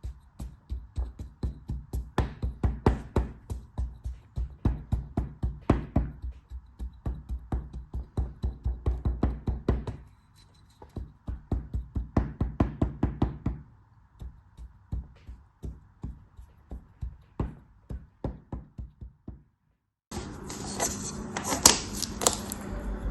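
Rapid, rhythmic knife strokes cutting through soap or kinetic sand onto a hard surface, about four a second, pausing briefly twice and thinning out towards the end. About twenty seconds in, after a brief silence, a different hissing, crackly sound takes over.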